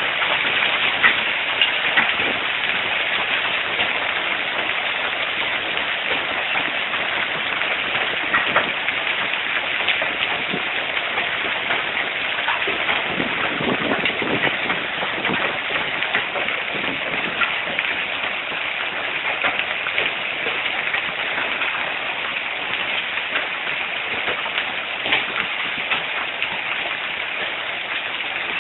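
Heavy hail of quarter- to golf-ball-sized stones pelting down in a dense, steady clatter, with sharper single impacts standing out all through it.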